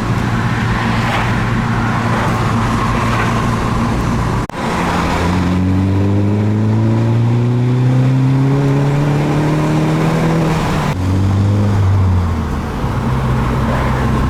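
Turbocharged four-cylinder engine of a Mini Cooper S under way: the engine note breaks off briefly about four and a half seconds in, then rises steadily for about six seconds as the car accelerates, and drops sharply about eleven seconds in as the throttle closes. The turbo flutters on lift-off, with more intake noise through the aftermarket foam panel air filter.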